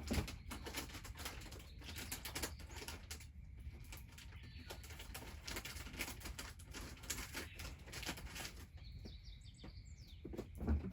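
Dense, irregular crackling and rustling clicks, with a bird chirping a few times about nine seconds in.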